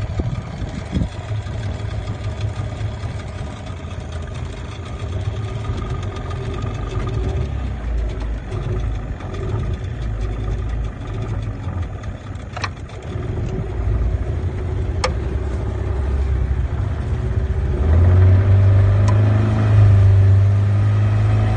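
Motor vehicle engine running with a steady low rumble, growing louder about eighteen seconds in, with two sharp clicks in the middle.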